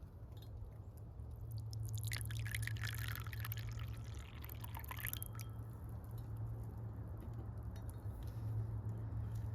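Liquid being poured, a bright trickling from about two seconds in that lasts about three seconds, over a low steady hum.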